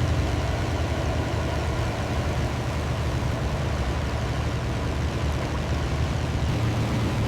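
B-17 Flying Fortress's piston engines running steadily, a low, even hum with propeller noise.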